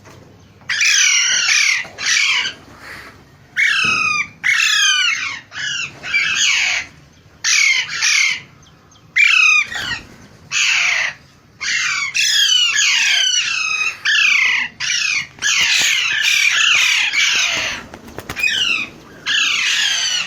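Parrots giving harsh, screeching squawks over and over, each call a short falling sweep, in quick runs broken by brief pauses.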